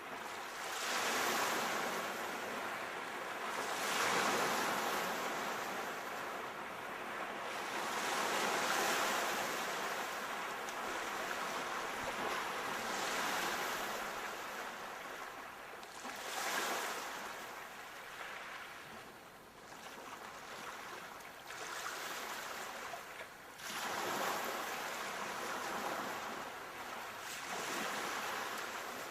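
Sea waves breaking, surf swelling and falling back in repeated surges every few seconds.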